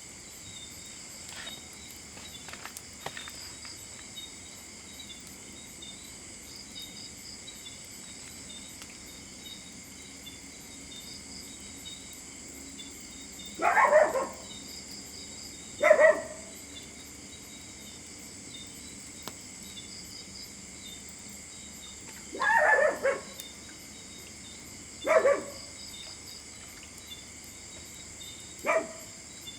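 Five loud animal calls, each about half a second long, come at uneven intervals in the second half, over a steady high-pitched background drone. A few small clicks come in the first few seconds.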